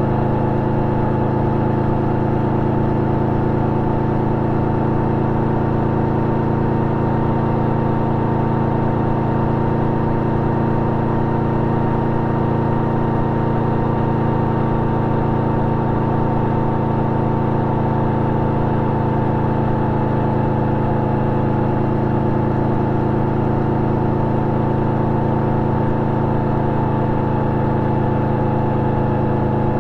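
Yamaha V-Max 1700's V4 engine running through an Akrapovic exhaust with its dB-killer fitted, holding a steady, unchanging engine speed.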